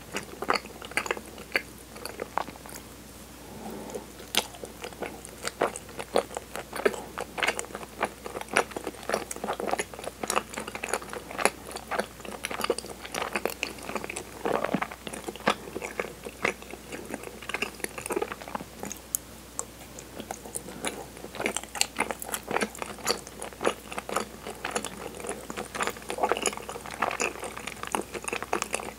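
Close-miked mouth sounds of chewing soft, chewy kinako-dusted cinnamon mochi: a steady, irregular stream of short sticky clicks and smacks.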